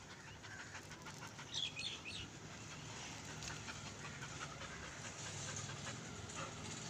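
German Shepherd puppy panting faintly, with a few brief high chirps about one and a half seconds in.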